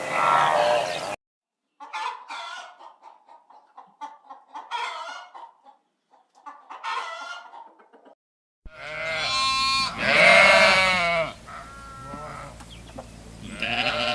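Chickens clucking in short, scattered bursts, then a rooster crowing: one loud, long call about ten seconds in.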